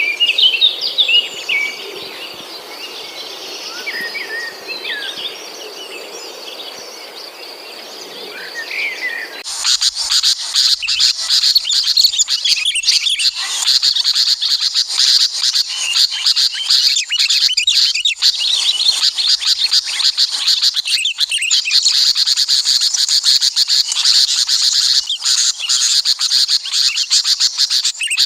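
Small songbirds chirping in quick, scattered calls; about nine and a half seconds in the sound cuts abruptly to a loud, steady, high insect buzz with bird chirps over it.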